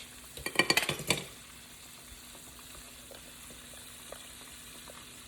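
Chicken pieces frying in hot grease in a skillet: a steady, faint sizzle with occasional small pops. Early on there is a short burst of sharp clicks and knocks, about a second long, before the sizzle goes on alone.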